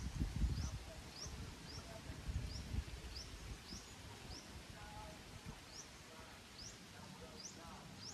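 A bird repeating a short, high, rising chirp a little under twice a second, over a low rumble in the first few seconds.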